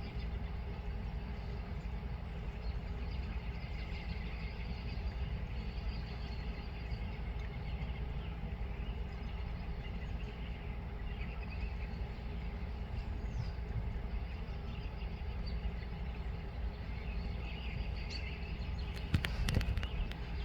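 Outdoor ambience: a steady low rumble with faint bird chirps over it, and a few sharp clicks near the end.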